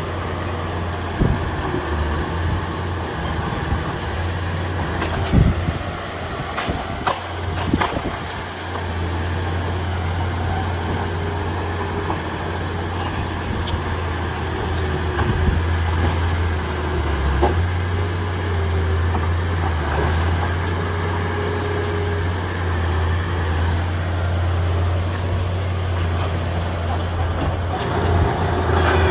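Heavy diesel earth-moving machinery running steadily, with several sharp metallic knocks during the first eight seconds.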